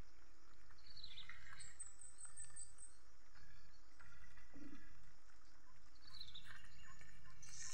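Swiftlets chirping: falling chirps about a second in and again near the end, and a high, rapid twittering trill around two seconds in, over a steady low rumble.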